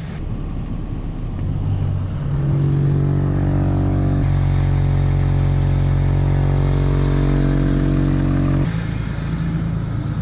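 Sander truck's engine running, speeding up about two seconds in and holding a steady higher speed, then dropping back near the end, while the sander is run to empty out its sand.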